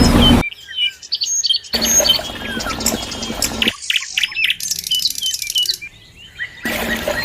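Small birds chirping and twittering in many short, quick calls. It cuts abruptly between stretches, some with a steady low hum under the birdsong and some nearly clear.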